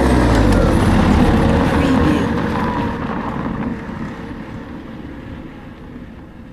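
A car passing by on a gravel and dirt road and driving away. Its engine is loud for the first couple of seconds, then fades steadily into the distance.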